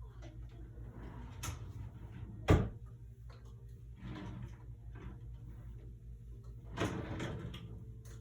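Drawers or cupboards being opened and rummaged through, with items rustling and clattering. There is a sharp knock about two and a half seconds in and another burst of rummaging near the end, over a steady low hum.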